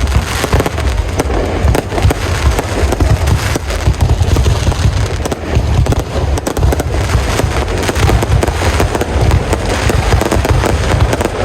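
Fireworks going off in a dense, continuous barrage of bangs and crackles, loud, with heavy low booms underneath.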